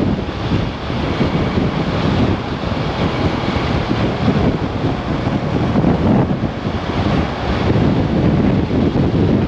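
Strong wind buffeting the microphone of a Kymco AK 550 maxi-scooter riding at speed. It is a loud, gusting rumble that swells and dips, with the scooter's running and road noise underneath.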